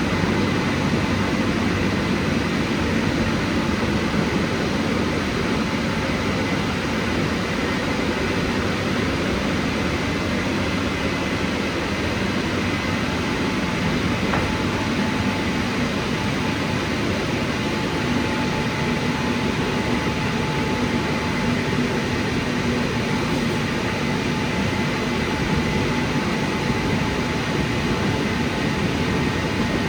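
WashTec SoftCare² Pro rollover car wash running with a steady, even rushing noise and no letup.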